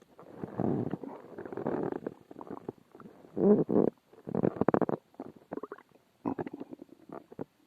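A person's stomach growling loudly: a run of irregular gurgling rumbles, the two strongest around the middle, broken by short quiet gaps.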